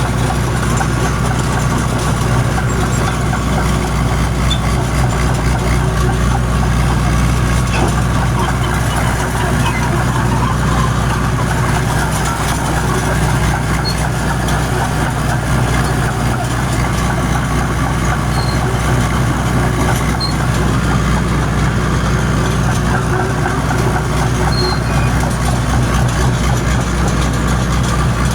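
John Deere crawler dozer's diesel engine running steadily under load, a deep, even rumble with no revving up or down.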